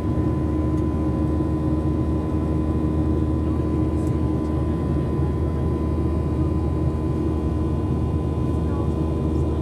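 Steady engine and airflow noise inside a jet airliner's cabin during the climb after takeoff, a constant low hum with a thin steady whine on top.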